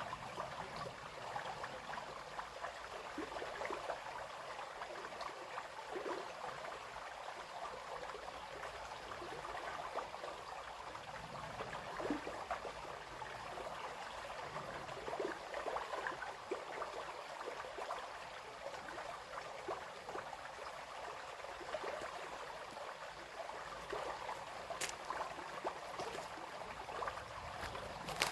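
Small brook running steadily, a continuous babbling and trickling of water.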